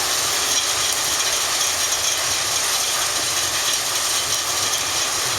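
Steady, loud mechanical running noise with a dense rattle, even throughout with no distinct knocks.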